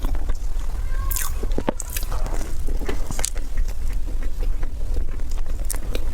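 Close-up eating: a person biting and chewing food, with short crunchy crackles, over a steady low rumble.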